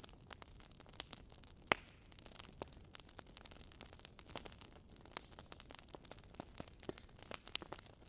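Wood fire crackling: irregular small pops and snaps over a faint hiss, with a couple of louder pops in the first two seconds.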